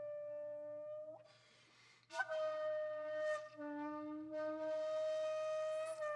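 Background music: a breathy wind instrument of the flute kind, holding long steady notes. The note breaks off about a second in, with a breathy pause, and a new note enters sharply with a slight bend around two seconds in.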